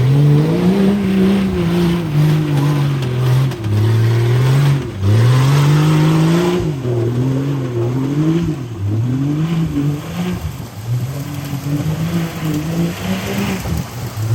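Mud-race truck on 44-inch tires, its engine revving hard as it pushes through the mud slough, the pitch climbing and dropping again and again.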